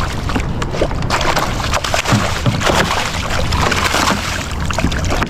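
Water splashing and sloshing as a hooked bass thrashes at the surface during the fight, with a steady low hum underneath.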